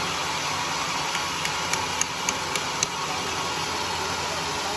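Homemade sawmill's engine running steadily, with a run of sharp ticks between about one and three seconds in.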